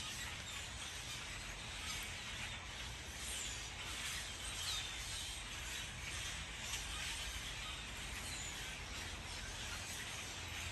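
A few short, faint bird chirps over steady outdoor background noise with a low rumble.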